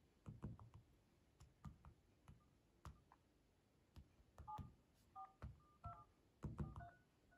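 Fingers tapping smartphone touchscreen dial pads, a run of soft clicks, with short two-note DTMF key-tone beeps sounding as digits are entered in the second half. Quiet throughout.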